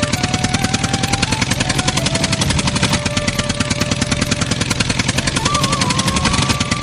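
A small machine clattering rapidly and evenly, about ten beats a second, with a slow melody of held tones stepping up and down over it.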